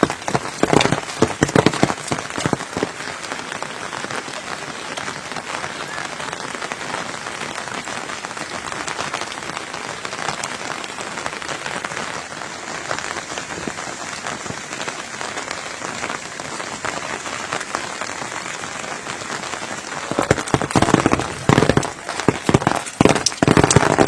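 Steady rain falling, a dense patter of drops. Louder irregular sounds break in during the first couple of seconds and again in the last four.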